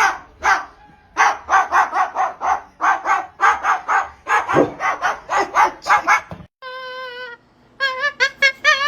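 Rapid, repeated dog-like barking, about three barks a second, stopping about six seconds in. Then a short held steady tone, and near the end quick warbling high notes.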